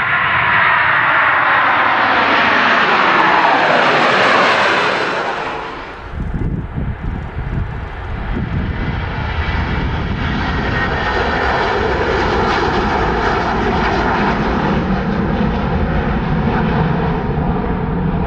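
Airplane engine noise from an aircraft passing low overhead: a loud rush whose pitch sweeps downward as it goes by. About six seconds in it gives way to a rougher low rumble, then to steady, even engine noise.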